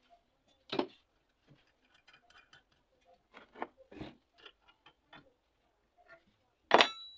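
Irregular light clicks and taps from metal parts and tools being handled at a workbench. Near the end comes one sharp, loud metallic clink that rings briefly.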